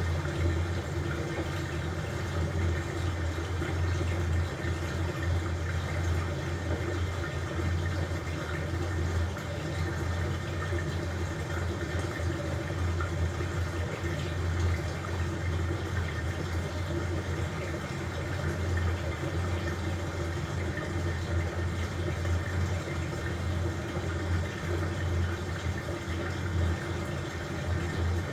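LG front-loading washing machine running mid-cycle: a steady low motor hum under a continuous wash of water noise.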